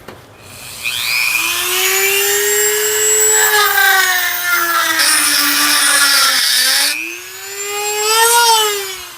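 Handheld rotary tool with a rounded diamond bit whining at high speed as it grinds old epoxy out of a steel hammer head's eye. The pitch sags a little as the bit bears into the work. It cuts off about seven seconds in, then spins up briefly once more and winds down near the end.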